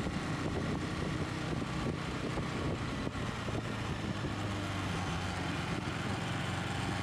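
Motorcycle engine running steadily while riding along, with road and wind noise.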